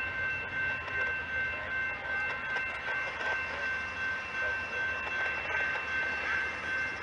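Amtrak bilevel passenger train rolling away around a curve, its wheels running over the rails with a steady high-pitched squeal.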